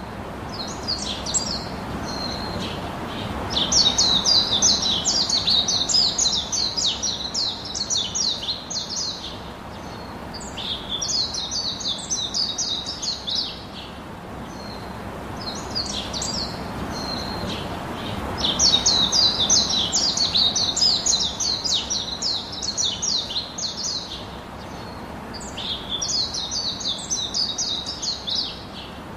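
A songbird singing: several long phrases of rapid, high chirps, each lasting a few seconds with pauses between, over a steady background hiss.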